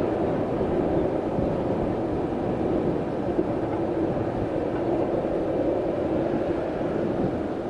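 Steady rumble and hum of a train running out of sight on an electrified main line, with wind on the microphone.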